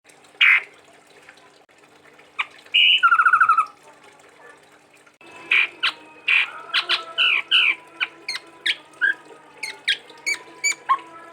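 Chestnut-rumped babbler (tepus tunggir merah) calling. A sharp note opens, then a pulsed rattle in two parts that drops in pitch about three seconds in. From about five seconds comes a busy run of short sharp notes and whistles, over a faint steady hum.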